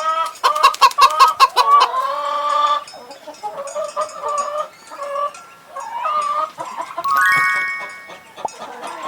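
Chickens clucking: a quick run of clucks in the first two seconds, then scattered, more spaced-out clucks.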